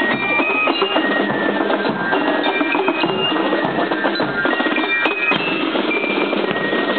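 Band music with percussion, its melody in short stepping notes, over the steady noise of a dense crowd.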